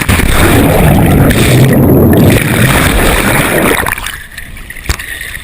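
Loud rushing noise of a boat and water, heavy in the low end, that drops away sharply about four seconds in.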